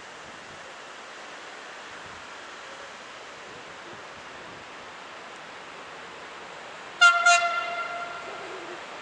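Train horn giving two short blasts about seven seconds in, then fading off, over a steady background hiss of wind and station ambience.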